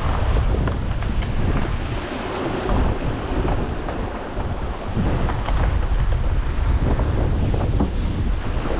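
Strong wind buffeting the microphone aboard a small sailing yacht, a deep, gusting rumble, with waves and water rushing past the hull.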